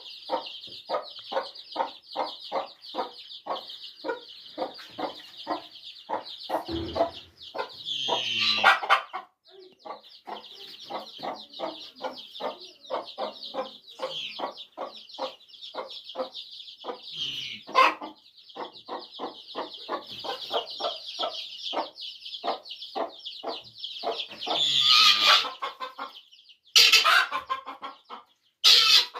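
Broody hen clucking steadily, about two to three short clucks a second, over a constant high peeping from the partridge chicks she has hatched. A few louder, harsher bursts break in, about a third of the way through and twice near the end.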